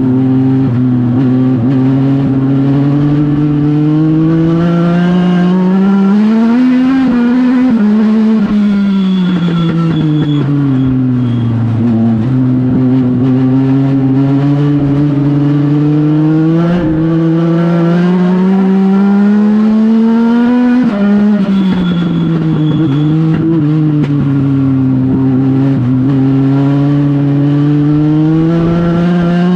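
Legend car's Yamaha four-cylinder motorcycle engine at racing speed, pitch climbing for several seconds and then dropping off as it lifts for the corners, twice over the stretch.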